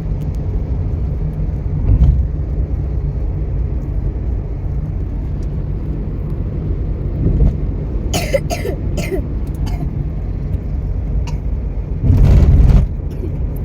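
Passenger train running, heard from inside the coach as a steady low rumble. A few short noisy bursts come about eight seconds in, and a louder one near the end.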